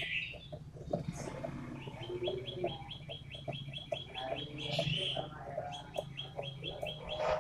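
Toed matahari songbird singing a fast run of sharp, high chirps, about eight a second, starting about two seconds in, pausing, then a shorter run near the end. A low steady hum sits under it.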